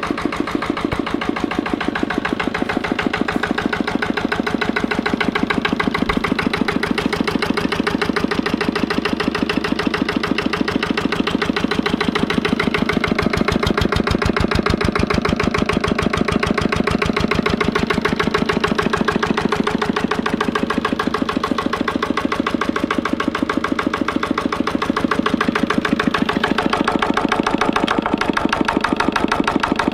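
Lister LD1 single-cylinder diesel stationary engine running steadily with an even, rapid firing beat, still cold after a cold start.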